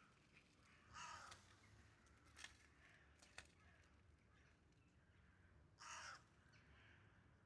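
Two short, harsh bird calls about five seconds apart, faint against quiet outdoor ambience, with two sharp faint clicks between them.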